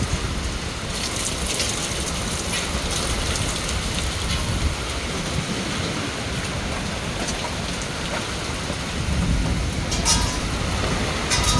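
Heavy rain pouring down in a storm, a steady hiss with a few sharp taps scattered through it.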